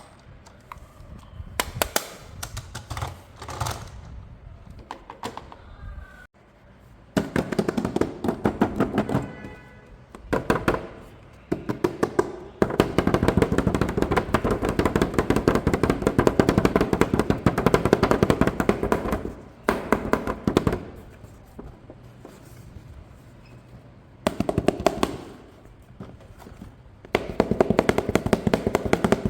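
Bursts of rapid clicking and rattling, the longest about six seconds, with quieter stretches between them.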